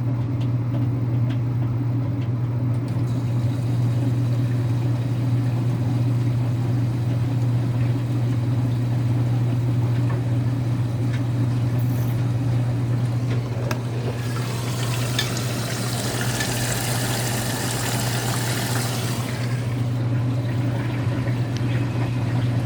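Electrolux Wascator W355H washing machine filling with water for its second rinse: water rushes into the drum over a steady low hum. The rush grows louder and hissier for about five seconds past the middle, then eases off.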